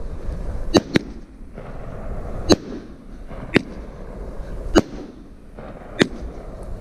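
A 30-shot 500-gram consumer fireworks cake firing. About six sharp bangs come roughly a second apart, over a low rumble from the shells.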